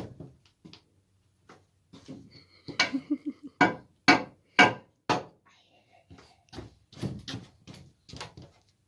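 A small child hammering with a wooden stick on wood: a run of sharp knocks about two a second, followed by lighter, uneven taps.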